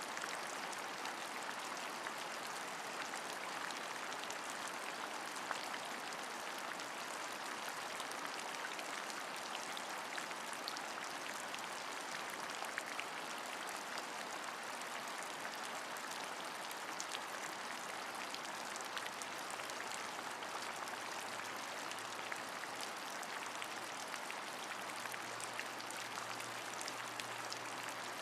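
Steady rain, with a dense patter of fine drop ticks. A faint low hum comes in about two-thirds of the way through and grows a little near the end.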